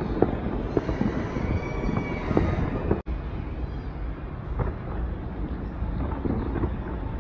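Distant fireworks going off in quick succession: a continuous rumble of booms with many sharp pops and crackles, the sound cutting out for an instant about three seconds in.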